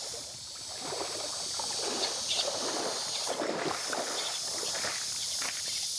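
River water sloshing and splashing in irregular swishes, with a steady high chorus of insects behind.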